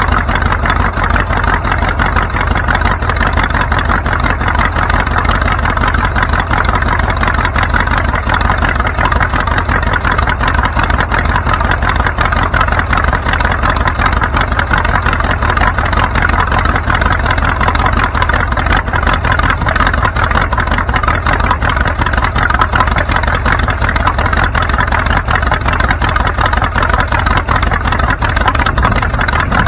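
A vehicle underway: steady engine and road noise with a deep rumble that stays even throughout.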